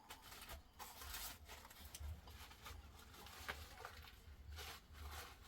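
Faint outdoor ambience: a low, fluctuating rumble and scattered soft rustles and crackles.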